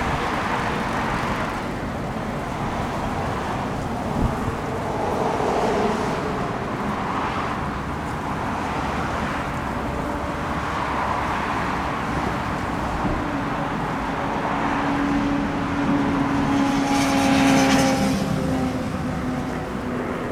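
Steady road traffic rumble. A vehicle passes close about three-quarters of the way through, its hum falling slightly in pitch as it goes by.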